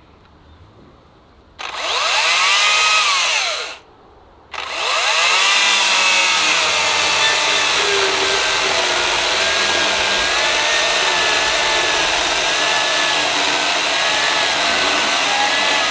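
Makita DUC254Z 18-volt brushless cordless chainsaw: a short burst of the motor spinning up and easing off about a second and a half in, then, after a brief pause, it runs on continuously as the chain cuts into a slab of hardwood, its whine wavering in pitch under load.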